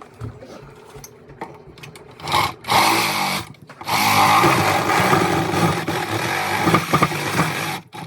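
A power tool running in bursts. After about two seconds of lighter clatter come a short burst, a second of running, and then a longer run of about four seconds that cuts off suddenly near the end.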